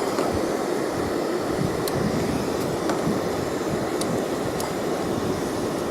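Strong wind rushing steadily over the microphone, with a few faint clicks.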